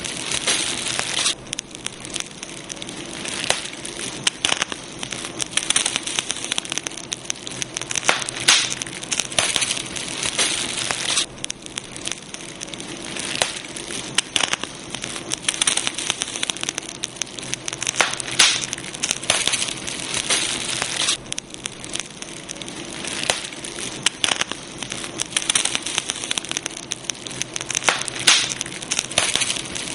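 Campfire burning, with a steady hiss and frequent sharp crackles and pops of burning wood.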